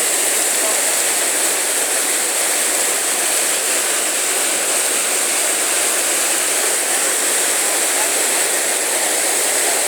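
Whitewater rapids of the Chattahoochee River rushing steadily in a strong, high flow from the upstream dam release.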